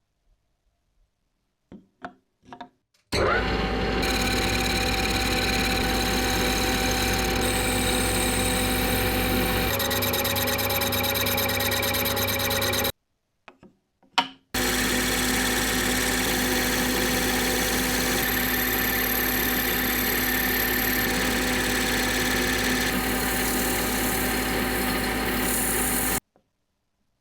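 An electric machine tool running steadily, its motor giving a steady hum with fixed tones, in two long runs that start and stop abruptly. A few short knocks and clicks come before each run.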